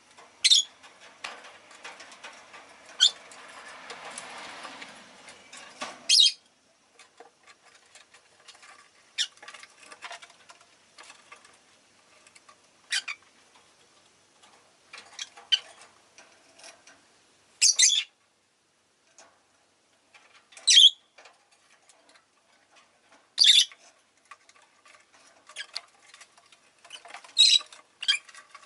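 Rosy-faced lovebirds calling: short, high-pitched shrieks every few seconds with softer chirps in between. A rushing noise runs under the calls for a few seconds near the start.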